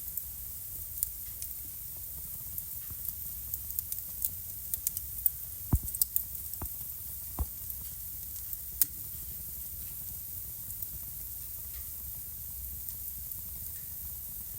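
Wood fire crackling in a fireplace: a steady soft hiss of burning with sharp pops and snaps that come thickest from about three to nine seconds in, then thin out to the occasional snap.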